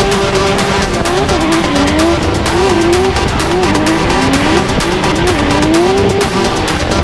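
Drift car engine revving hard, its pitch swinging up and down again and again as the throttle is worked through a drift, with tyre squeal over it.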